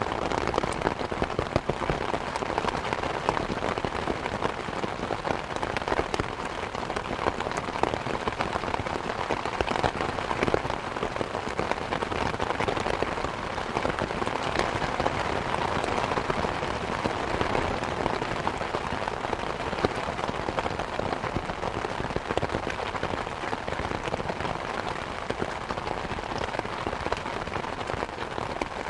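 Steady rain with a fireplace crackling over it, a constant patter with scattered small pops and snaps.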